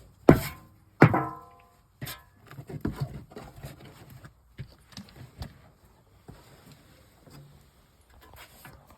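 A sheet of aluminum clanging as it is handled: two sharp hits early on, the second ringing with several tones for most of a second, then lighter knocks and rattles.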